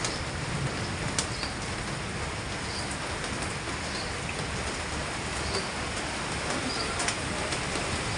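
Heavy monsoon rain falling onto a flooded street and standing water, a steady even hiss with a few sharp drip clicks.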